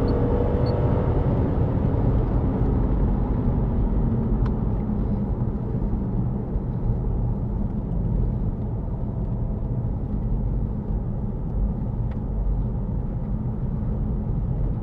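Suzuki Grand Vitara's 3.2-litre V6 petrol engine heard from inside the cabin, its note still rising at full throttle for about the first second, then easing off as the throttle is lifted. After that, a steady low rumble of engine and road noise as the vehicle cruises at around 96 km/h.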